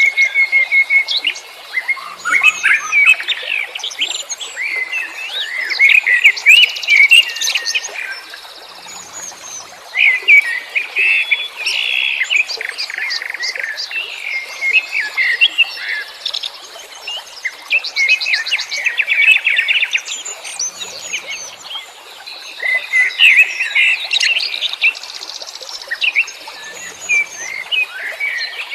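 Several wild songbirds singing and chirping at once: a dense mix of overlapping twitters, whistled phrases and fast trills with hardly a pause.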